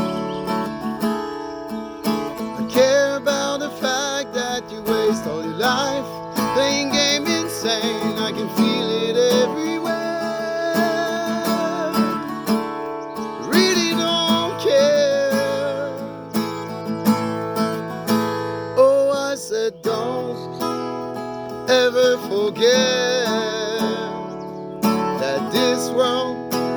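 An acoustic guitar song: a strummed acoustic guitar, with a wavering melodic line, likely a singing voice, over it.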